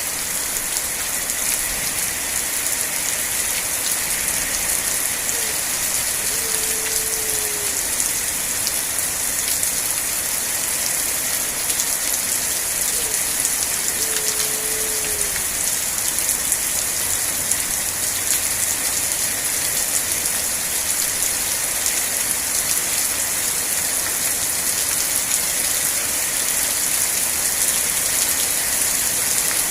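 Steady rain falling on surfaces, a dense even hiss. Twice in the first half a faint short falling tone sounds under the rain.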